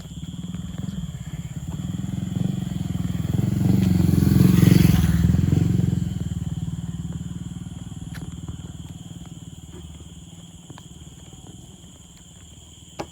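A motor vehicle passing by, its low engine sound growing louder to a peak about five seconds in, then slowly fading away.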